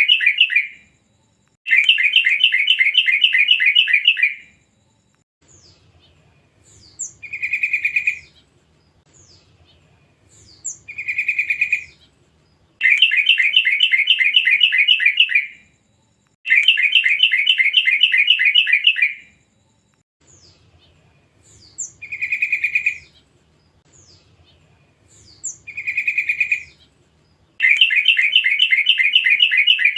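Yellow-vented bulbul chattering: bouts of about two and a half seconds of fast repeated notes alternate with shorter, single drawn-out notes. This is a recorded lure call of young wild birds, played to set caged bulbuls calling.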